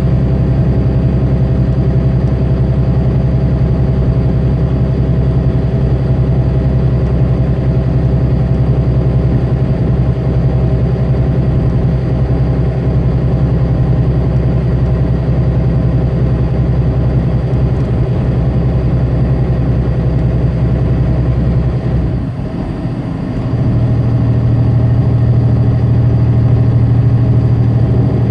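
Tractor-trailer's diesel engine running steadily on the highway, heard from inside the cab. Near the end the engine note drops away for a moment and comes back at a new steady pitch.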